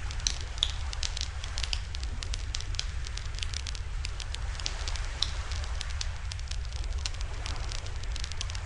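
Wood fire crackling in a campfire stand, with many irregular sharp pops and snaps, over a steady low rumble.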